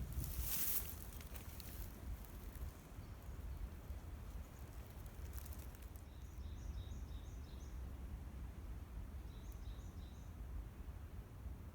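Outdoor ambience with a steady low rumble, a rustle in the first second and another about five seconds in, and a small bird calling twice in the second half, each time a quick run of short high chirps.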